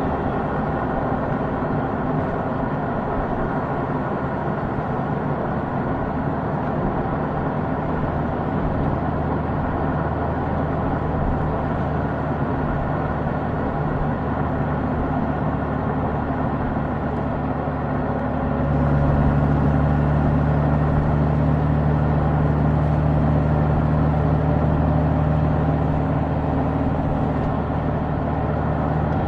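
Honda Gold Wing's flat-six engine running under way, with road and wind noise. About two-thirds through it gets louder, its low engine note stronger and steady for several seconds, then eases back slightly near the end.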